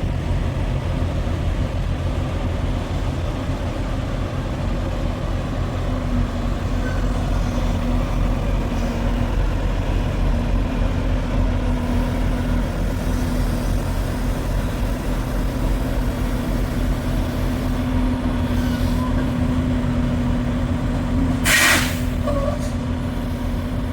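Truck engine running with a steady low drone and a constant hum. A short burst of hiss comes near the end.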